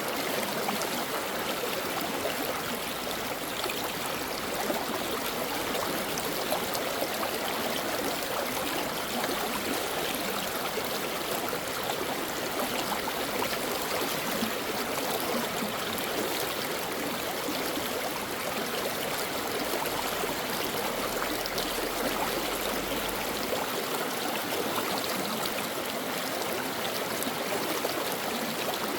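Stream water flowing and babbling over stones, a steady even rush with no breaks.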